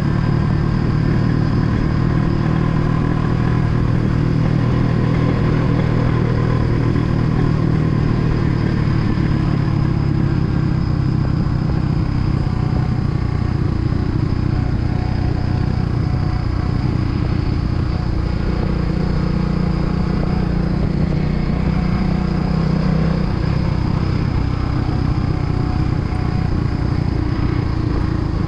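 Kawasaki W175 motorcycle's single-cylinder engine running steadily while riding, its note shifting briefly about two-thirds of the way through.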